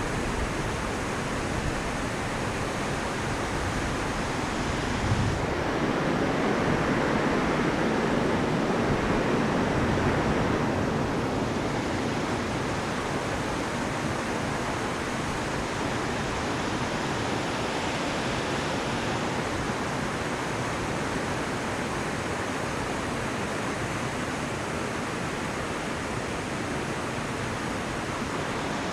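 A high, fast river at flood stage rushing through whitewater: a steady rush of water that swells a little louder for several seconds about a fifth of the way in.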